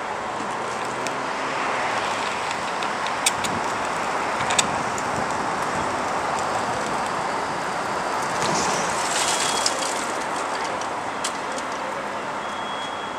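Steady road-traffic and vehicle noise, with a few short sharp clicks and a brief swell in level about nine seconds in.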